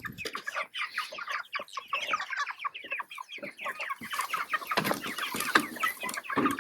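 A flock of about 25 chickens clucking and chattering in a coop, many short calls overlapping without a break, with a few brief rustling knocks a little past the middle.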